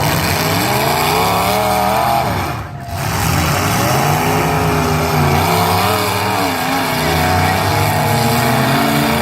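Several demolition-derby car engines revving up and down together, with a brief lull just under three seconds in.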